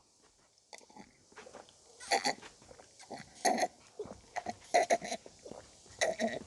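A person gulping down makgeolli in several swallows about a second apart, with small wet mouth clicks between them.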